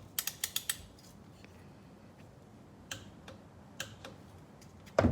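Ratchet of a torque wrench clicking as a dirt bike's oil drain bolt is tightened: a quick run of about five clicks, then a few single clicks. A louder knock near the end.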